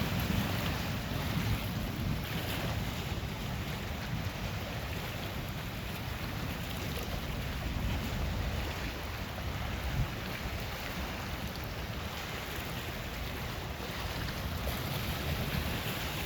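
Steady wind noise rumbling on the microphone over the wash of Lake Superior waves.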